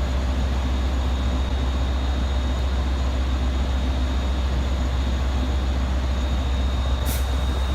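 LIRR DM30AC diesel locomotives running steadily, a deep continuous rumble with a faint steady high whine over it.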